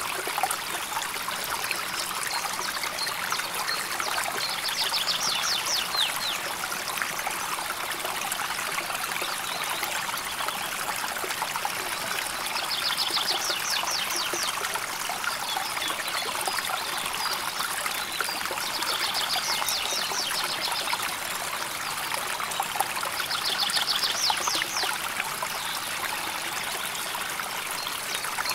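River water flowing steadily with an even trickling rush. A bird calls a short, rapid trill four times over it.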